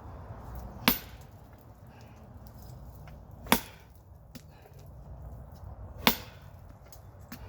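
Sledgehammer striking a rock three times, sharp single impacts about two and a half seconds apart.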